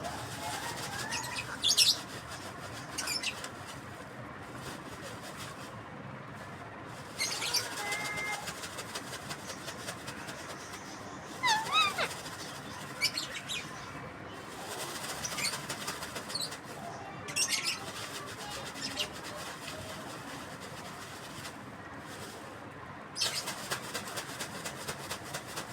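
Pet parrot calling in short, high chirps and squeaks that bend up and down in pitch, coming in scattered clusters every few seconds, with no clear words.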